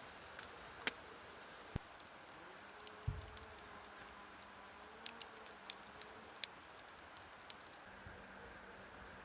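Scattered sharp clicks and light taps at an irregular pace, with one dull low thump about three seconds in.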